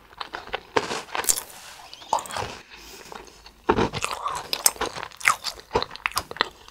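Close-up chewing of a crunchy mint-flavoured snack: irregular crunching and crackling bites as it is chewed.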